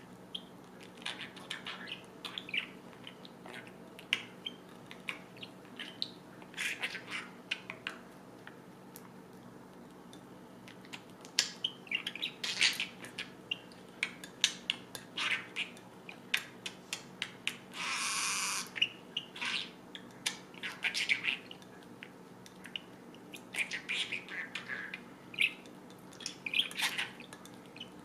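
Pet budgerigar chirping and chattering in many short, separate calls, with one longer noisy sound about two-thirds of the way through.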